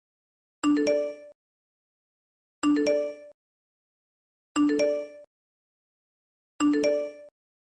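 A short chime-like sound effect with clear ringing tones, repeated four times at even intervals of about two seconds, each copy identical with a sharp start and a quick fade.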